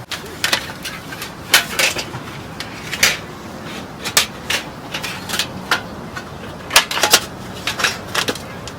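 A series of irregular sharp clicks and light knocks, a dozen or so, some in quick pairs, over a faint steady hiss.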